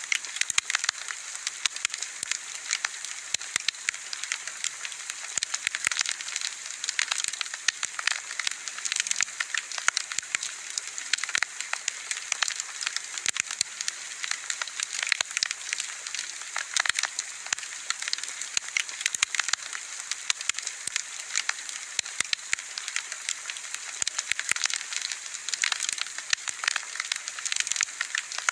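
Bonfire of burning wood crackling, a dense, irregular stream of small sharp pops and snaps over a steady hiss.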